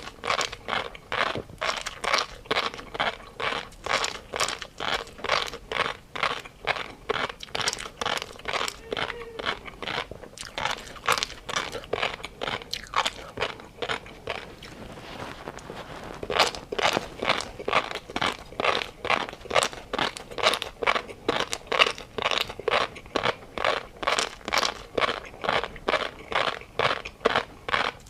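Someone chewing crunchy food close to the microphone: quick, even crunches, about two or three a second, with a short pause about halfway through.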